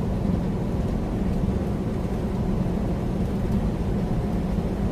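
Semi-truck cab at highway speed: the steady low drone of the engine and road noise, with no sudden sounds.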